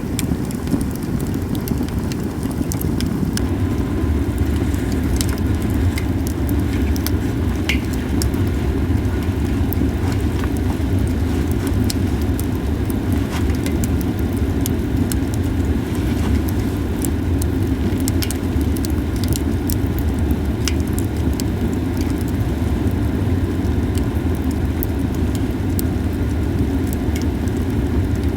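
Japanese cedar firewood crackling, with scattered sharp pops, over a loud steady low rumble.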